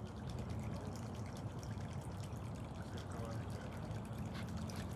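Water trickling and dripping steadily, with a low steady hum underneath.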